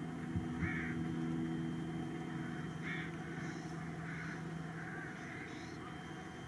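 Crows cawing, a string of short calls about once a second, over a steady low hum.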